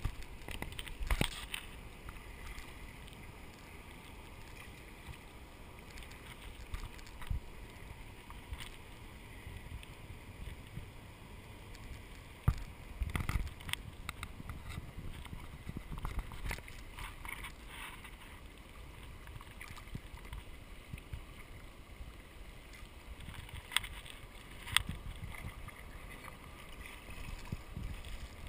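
Kayak paddle strokes dipping and splashing in the water over a steady wash of water noise, with a few sharper, louder splashes or knocks now and then.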